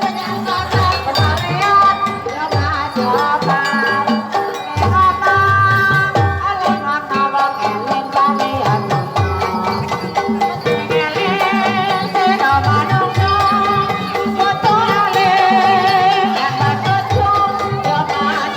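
Javanese ebeg (kuda kepang) troupe music: repeated drum strokes under a wavering melody line, which takes on a strong vibrato about halfway through.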